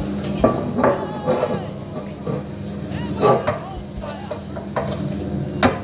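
Kitchen cooking sounds: a utensil stirring and knocking against a pot several times, over a steady low hum.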